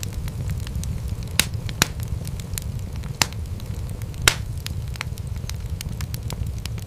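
Wood fire crackling in a fireplace: a steady low rumble of flames under many small snaps, with four louder pops between about one and a half and four seconds in.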